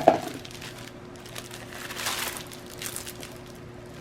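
Plastic packaging crinkling and rustling as a diamond painting kit is handled and opened, with a few sharp handling knocks right at the start.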